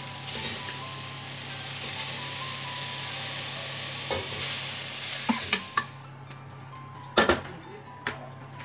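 Raw chicken pieces sizzling in hot oil with sautéed onion in a stainless steel pot as they are stirred in with a wooden spatula, with several sharp knocks. The sizzle cuts off suddenly about six seconds in, and a few more knocks follow.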